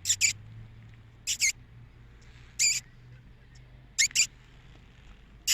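Short, high-pitched animal chirps, mostly in quick pairs, repeating about every second and a half over a quiet background.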